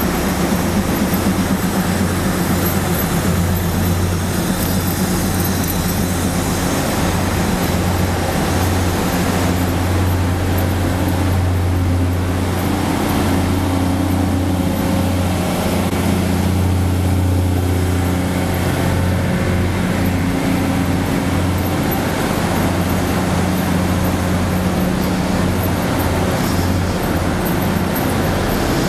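Passenger train standing at the platform, its onboard machinery giving a steady, loud low hum.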